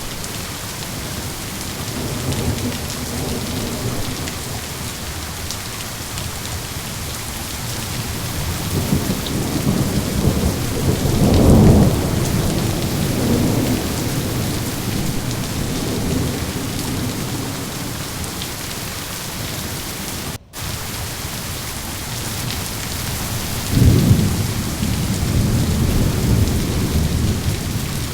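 Steady heavy rain with thunder rolling under it, the rumbles swelling twice to loud peaks, about twelve and twenty-four seconds in. The sound cuts out for an instant about twenty seconds in.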